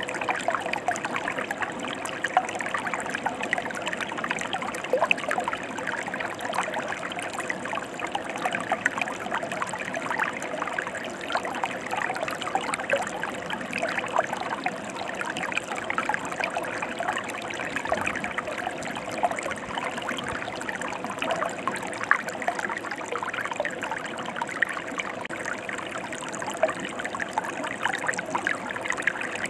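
A mountain stream flowing: a steady rush of water with many small splashes.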